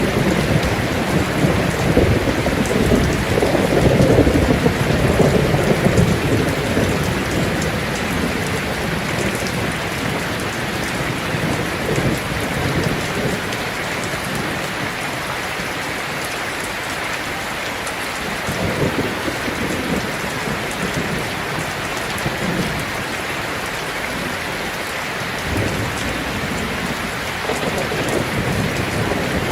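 Heavy rain drumming steadily on a tin roof, with rumbles of thunder rolling in near the start, again about two-thirds of the way through, and near the end.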